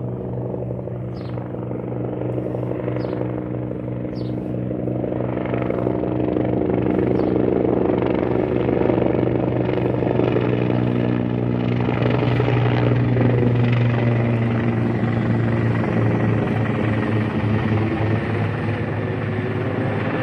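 Helicopter flying overhead, a steady engine-and-rotor drone that grows louder over the first half and eases slightly toward the end.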